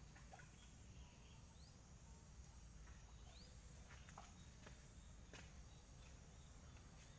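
Near silence: a faint low rumble with scattered soft clicks and a couple of brief high chirps.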